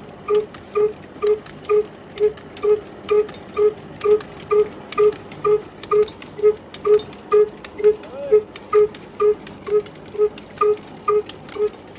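Slow-running diesel engine, its exhaust giving short pitched puffs at a steady beat of about two a second.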